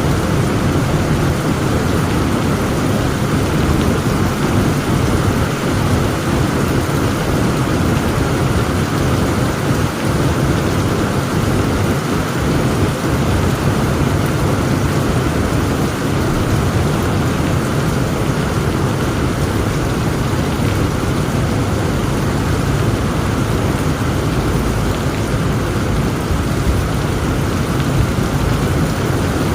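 Heavy rain pouring steadily over a continuous low rumble of thunder, with no single sharp thunderclap.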